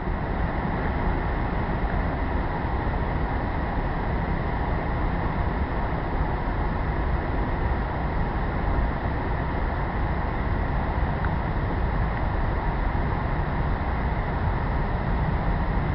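Steady low rumble of ocean surf and wind at the shore, unbroken and without distinct crashes.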